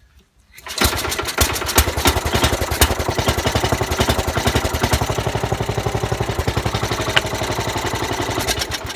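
Sears Suburban 12's Tecumseh HH120 single-cylinder engine catching on a hand rope pull-start about a second in. It runs steadily for about eight seconds, then cuts off suddenly near the end.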